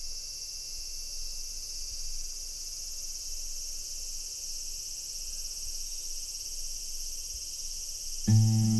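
A steady, high-pitched chorus of insects shrilling in summer heat. Near the end, strummed acoustic guitar music cuts in loudly.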